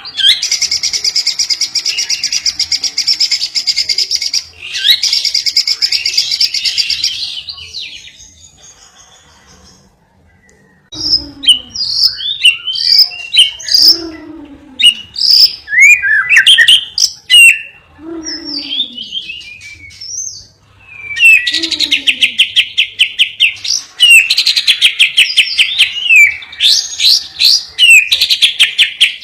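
Caged songbird singing a master training song: long, fast rattling trills, a short pause about a third of the way in, then a run of sharp varied whistled notes and more rapid trills, as in the lovebird and canary phrases used to teach other songbirds.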